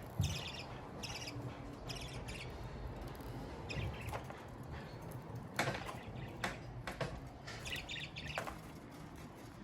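Budgerigar giving short high chirps in quick little groups of a few notes each, with several sharp taps or knocks in the middle.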